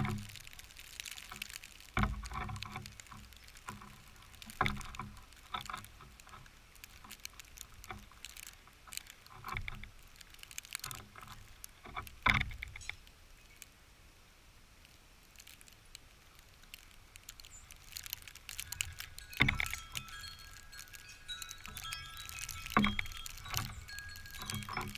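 Blizzard wind buffeting the microphone in gusts, with scattered light ticks. In the second half, several steady metallic ringing tones, like a wind chime, sound in the wind.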